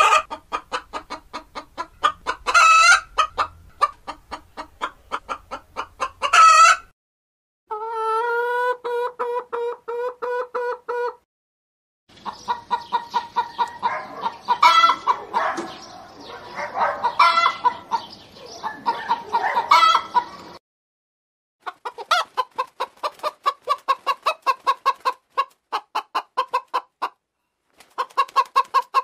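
Chickens clucking in rapid runs of short clucks, with a few louder, drawn-out squawks. The sound cuts off and restarts several times, as separate clips are spliced together. The middle stretch is a crowded flock clucking all at once.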